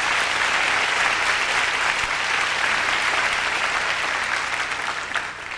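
Concert hall audience applauding, heard on a cassette tape recording of a live show; the clapping dies away near the end.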